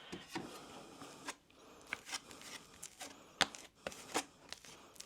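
Scattered light clicks, taps and rustles, irregular and spread through the few seconds: the sound of small objects or materials being handled.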